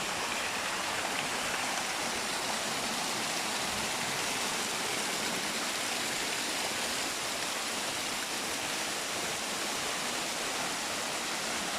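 Spring water gushing out of a rock and running off in a steady rush.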